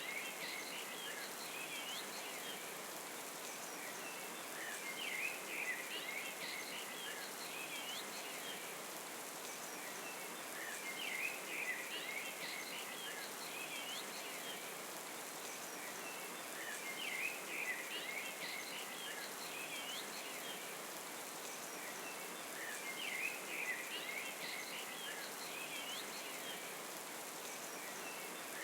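Waterfall nature ambience: a steady hiss of falling water with clusters of high chirping calls that come back about every six seconds.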